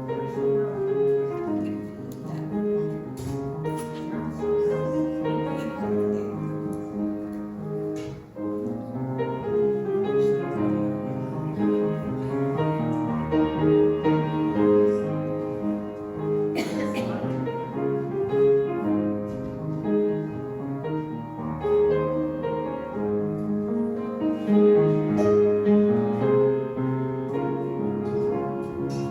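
Slow instrumental music played on a keyboard, with sustained chords and a melody line.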